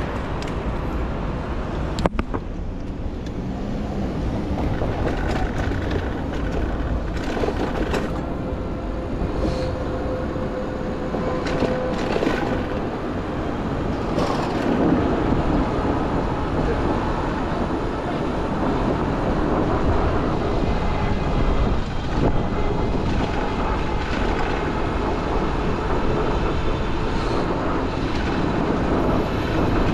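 City street traffic heard from a moving bicycle, with a Toronto streetcar running on its rails close by: a steady rumble and noise with a few sharp clicks.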